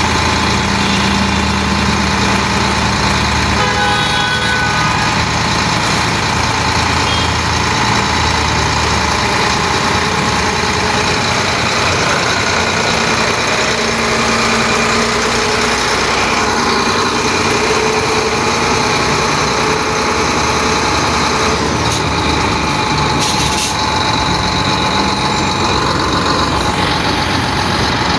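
Sinotruk HOWO dump truck's diesel engine running steadily.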